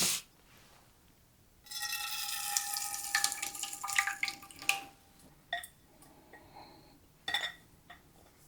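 Runny rice and cream-soup mixture poured from a mixing bowl into a casserole dish, a wet pouring sound with a faint ringing tone for a few seconds. This is followed by a few short clinks against the dish.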